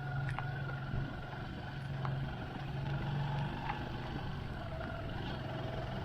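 Motorcycle engine running steadily under way, with the rush of riding noise and a few faint ticks.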